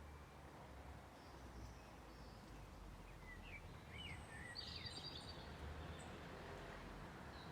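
Faint birdsong: a few short whistled notes and chirps, clustered about three to five seconds in, over a low steady background rumble.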